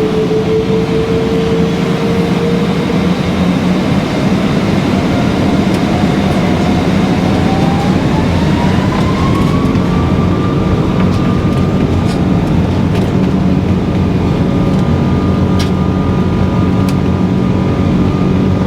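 Boeing 777 jet engines at takeoff power heard from inside the cabin: a loud steady roar with an engine whine that rises in pitch over several seconds and then holds steady. A few sharp clicks or rattles come in the second half.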